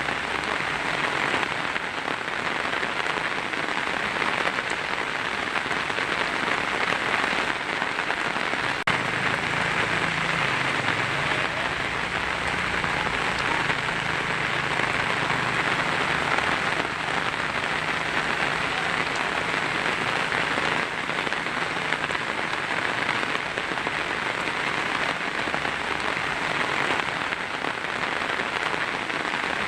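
Heavy rain drumming steadily on a tin roof. A faint low rumble sits underneath from about nine seconds in until past twenty seconds.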